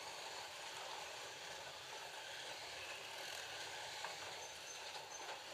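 FLY Classic slot cars with 19K motors running around the track: a steady whir of small electric motors and tyres, with a single click about four seconds in.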